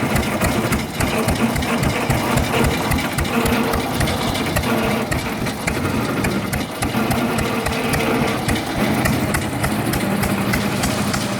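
1917 Fairbanks Morse Model Z 6 hp single-cylinder hit-and-miss engine running under load as it drives a truck, a steady rapid chain of regular firing beats.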